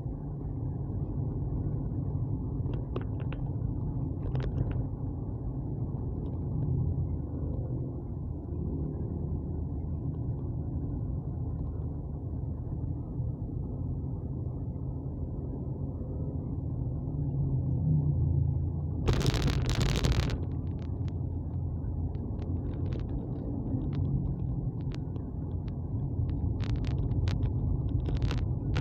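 Steady low rumble of a moving vehicle, heard on board, with a loud rush of noise lasting about a second about two-thirds of the way through and scattered light clicks near the end.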